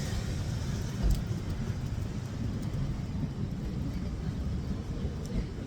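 Steady low rumble of city street traffic, with a short thump about a second in.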